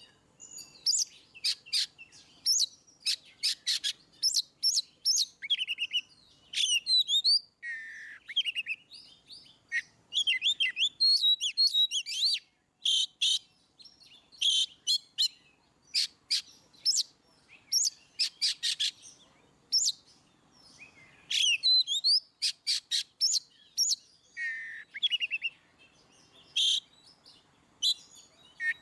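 Oriental magpie-robin (kacer) singing in full, open voice: a varied run of clear whistles, sharp chirps and fast trills in quick phrases broken by short pauses.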